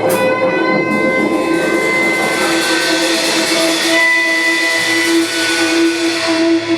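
Live rock band holding sustained, ringing chords on electric guitars, with one drum hit at the start and cymbals washing through the middle.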